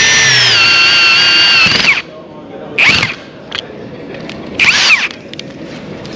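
A 1/2-inch impact wrench fitted with a Rotabroach Site Hero adapter, running as a drill with a cutter in steel. Its steady high motor whine drops in pitch as the cutter takes load about half a second in, then stops just before two seconds. Two short whirs follow, each spinning up and back down.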